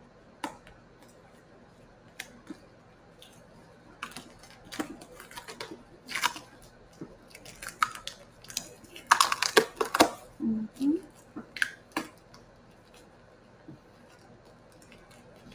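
An adhesive IV dressing being slowly peeled off the skin by gloved hands: a run of short crackling and rustling peels, busiest a little past the middle.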